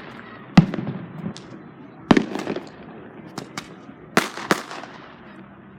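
Aerial fireworks bursting: a series of sharp bangs, several close together in pairs, each trailing off in a rumbling echo.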